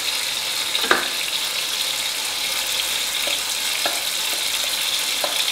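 Tomatoes frying in ghee in a karahi, a steady sizzle. A few light clicks come through it as the wooden spatula scrapes spices off a plate into the pan.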